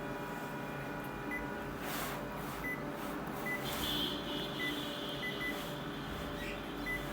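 Konica Minolta bizhub colour copier running with a steady hum, while short high key-press beeps come from its control panel about ten times as the service-mode key sequence is entered. A higher steady whine from the machine joins in about three and a half seconds in.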